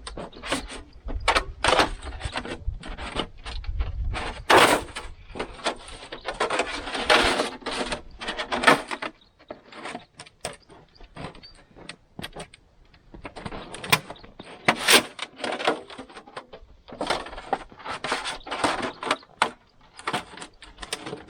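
Sheet metal being handled and bent by hand into a stovepipe: irregular scraping, crinkling and sharp clicks, with a quieter stretch in the middle.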